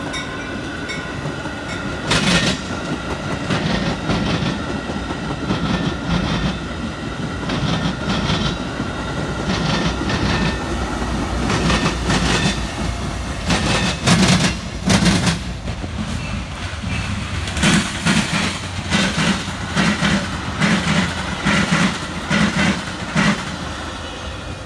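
Metra commuter train with F59PHI locomotive 92 passing close by: a steady rumble, and the wheels click over the rail joints in a regular clickety-clack that grows stronger in the second half.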